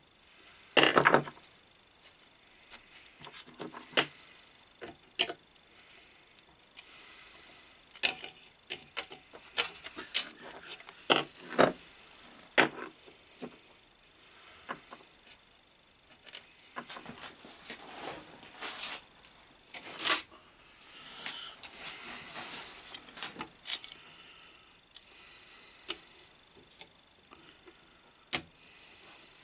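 Hand work on a bench grinder's base as the old mains cable's strain-relief grommet is squeezed and worked out: irregular clicks and knocks, the loudest about a second in, between stretches of rubbing and scraping.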